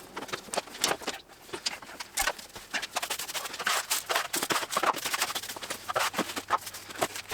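Irregular clicks, taps and knocks of metal tools and parts being handled in a workshop, several a second.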